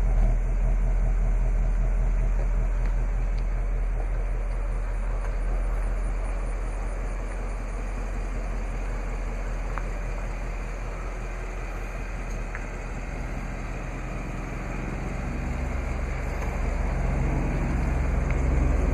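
2016 Ford Mustang GT's 5.0-litre Coyote V8 idling with a steady low throb. It eases off slightly in the middle and grows louder again near the end.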